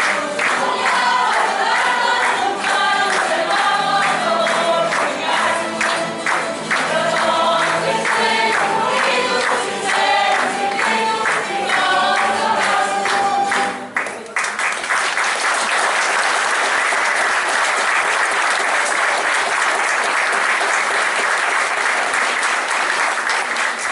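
A group of voices singing to instrumental accompaniment with a steady beat, which stops abruptly about halfway through. An audience then applauds for the rest of the time.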